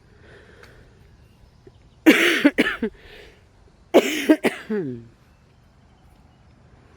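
A woman coughing, likely as she gets over being sick: two short bouts of two or three coughs each, about two seconds apart. The second bout trails off in a falling voiced sound.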